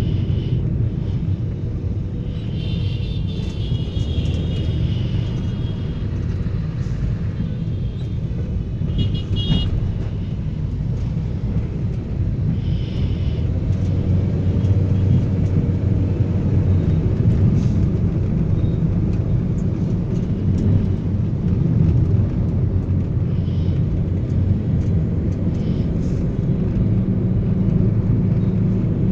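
Toyota Noah minivan driving, a steady low engine and road rumble, with a few faint high-pitched tones a few seconds in.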